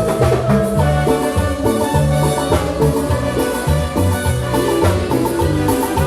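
A live band playing an instrumental passage of upbeat Latin dance music, with a driving bass line, percussion and a repeating line of short high melodic notes.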